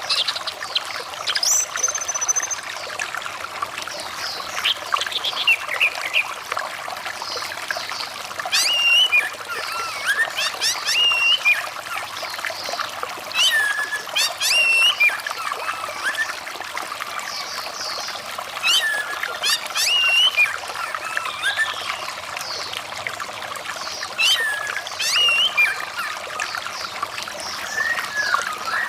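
Steady trickling running water with an orange-headed thrush singing over it: bursts of quick whistled phrases with sharp up-and-down sweeps, coming every few seconds.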